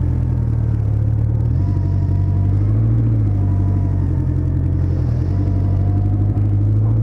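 A vehicle engine running close by, giving a steady low rumble that shifts slightly every second or two.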